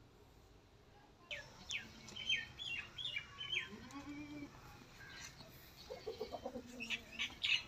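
Birds chirping repeatedly in quick short notes, starting about a second in, with a run of lower calls later on.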